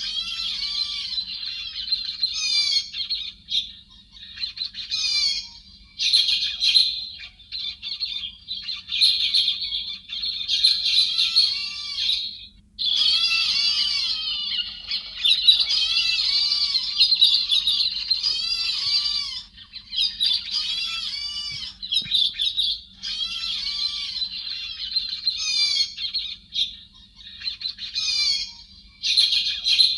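Héc xoan birds, a thrush-type bird used as a trapping lure, calling together in dense, fast chattering runs of high arching chirps. The chatter is broken by a few brief pauses, with a faint steady low hum underneath.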